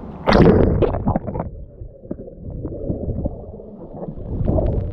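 Seawater splashing and sloshing close to the microphone as a swimmer moves: a loud splash just after the start, then a low rumbling wash with small splashes, and more splashing near the end.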